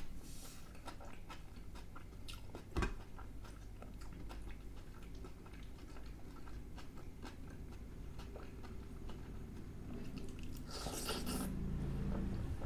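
Close-miked chewing of stuffed aloo kulcha dipped in curry, with many small wet mouth clicks. A single brief thump about three seconds in, and a short breathy rush near the end.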